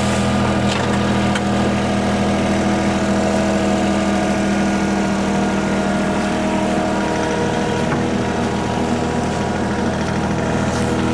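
Heavy machine engine running steadily at a constant speed, with no revving or change in pitch.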